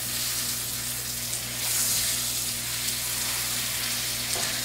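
Burger patties and onions sizzling in a hot pan: a steady frying hiss that swells briefly about two seconds in, over a steady low hum.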